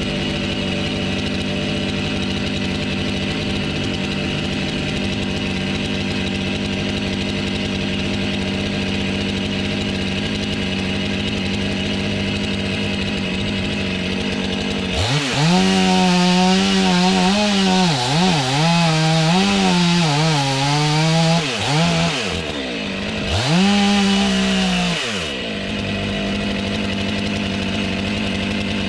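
Two-stroke chainsaw running steadily, then cutting wood for about seven seconds from about halfway, its pitch wavering up and down under load with the hiss of the chain through the wood. A second short burst follows before it settles back to steady running.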